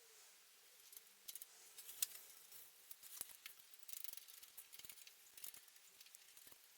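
Faint, irregular clicks and light taps of hand work on small bicycle parts, the sharpest about 2 s in.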